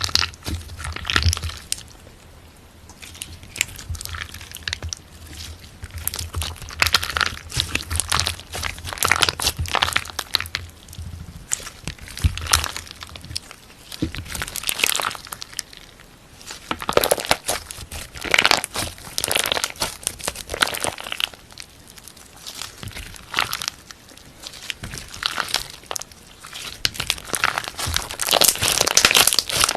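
Slime being squeezed, pressed and stretched by hand, giving irregular clusters of sticky clicks and pops.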